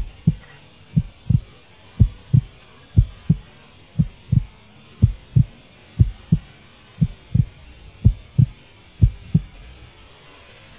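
A heartbeat: pairs of short, low, dull thumps in a lub-dub rhythm, about one pair a second, stopping near the end.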